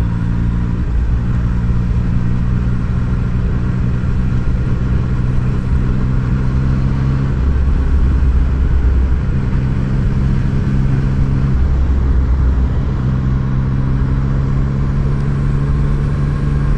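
Yamaha MT-09's three-cylinder engine running steadily under way, heard from the rider's seat. Its note eases off briefly twice, about seven and eleven seconds in, while a low rumble comes up.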